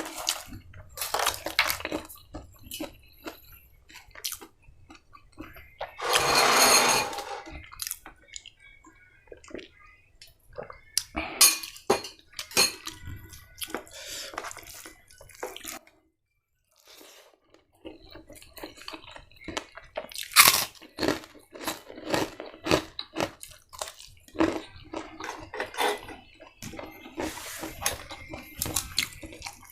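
Close-miked eating: chewing and crunching mixed with many small clicks and taps of utensils or fingers on dishes. There is a louder noisy burst about six seconds in, and a brief silent break around sixteen seconds in.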